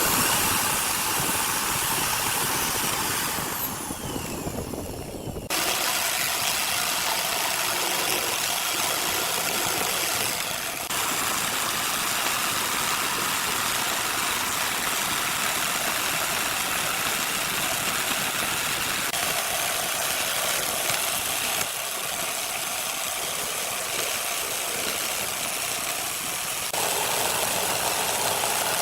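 Steady mechanical running noise with a wide hiss, typical of a small motor, changing character abruptly several times.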